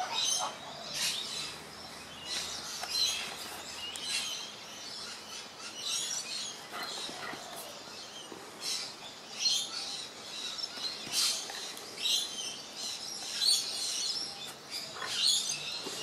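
Small birds chirping, many short high-pitched calls coming irregularly one after another.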